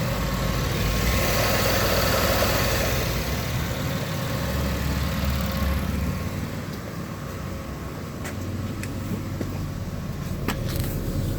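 Used 104,000-mile engine from a 2015 Chevrolet Impala running during a run test, fuller for the first few seconds, then settling quieter, with a few sharp clicks near the end.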